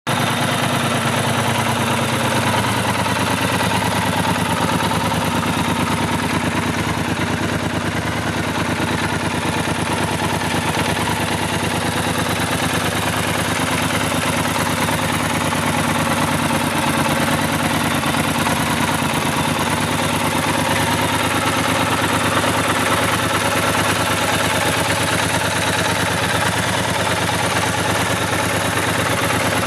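Triumph Scrambler 1200 XE's 1200 cc parallel-twin engine idling steadily, with no revving.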